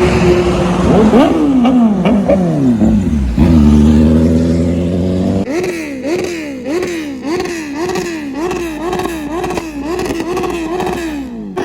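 Superbike engine, plausibly the Honda CBR1000RR Fireblade's inline-four, revving hard. The pitch drops steeply over the first few seconds and holds steady briefly, then goes into quick repeated throttle blips, rising and falling about twice a second.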